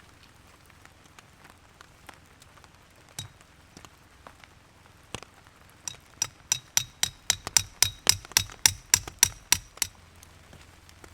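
A hammer striking metal: about twenty quick, ringing blows in a row, roughly five a second, after a few scattered light taps, typical of a metal tent peg being driven in.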